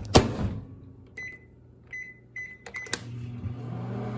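Microwave oven door shut with a knock, then four short keypad beeps as the cooking time is set, and the oven starts running with a steady hum about three seconds in.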